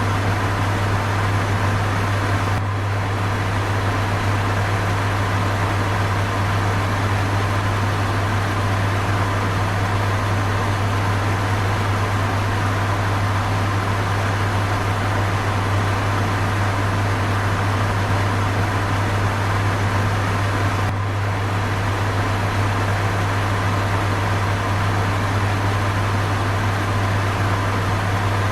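Electric fan running steadily: an even rush of air over a constant low motor hum, dipping briefly twice.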